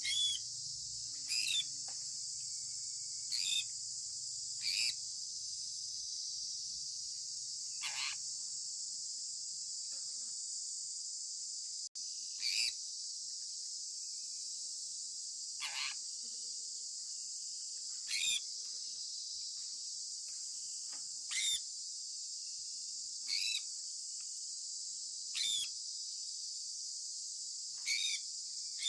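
Sun conure giving short, sharp chirps every two to three seconds, each sliding down in pitch, over a continuous steady high hiss.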